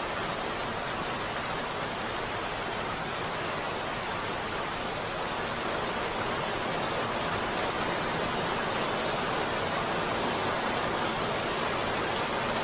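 Steady heavy rain: a dense, even hiss with no separate drops or thunder standing out, growing slightly louder about halfway through.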